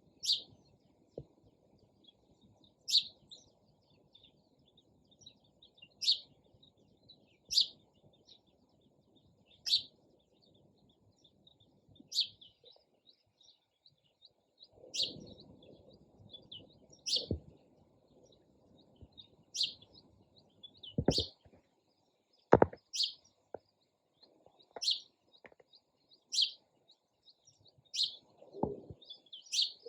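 A sparrow giving short, high single chirps, one every couple of seconds, over a faint low rumble. Two sharp clicks come about two-thirds of the way through.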